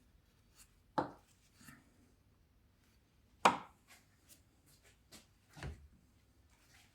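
Three separate knocks, the middle one the loudest, with faint taps and clicks between them, like tools or parts being handled during the work.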